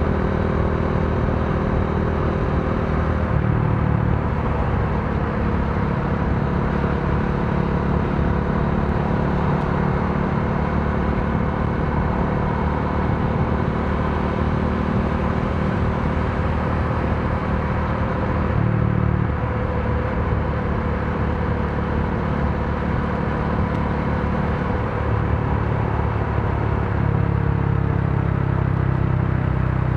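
Modenas Dominar D400's single-cylinder engine running under way, with road and wind noise. The engine note shifts a few times: about 4 seconds in, around 19 seconds, and again near 25 seconds.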